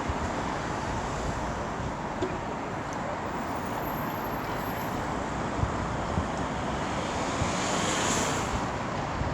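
Class 390 Pendolino electric train pulling out of the station, a steady rumble of wheels and running gear that swells slightly about eight seconds in.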